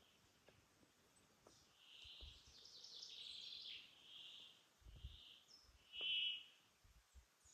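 A bird calling faintly: a series of about five short notes, the last one, about six seconds in, the loudest.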